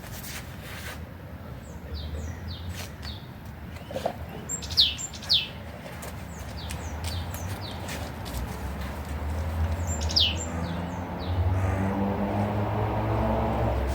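Songbird calls: a series of short, quick downward-sliding chirps, loudest about five seconds in and again about ten seconds in. Under them is a steady low hum, with a low rumble that grows louder near the end.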